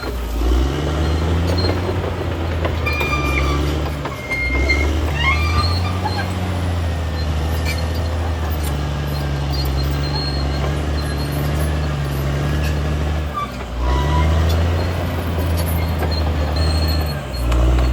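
CAT D6R XL bulldozer's diesel engine working under load, its low drone dipping and picking up again a few times as the load changes, with short high metallic squeals from the running gear.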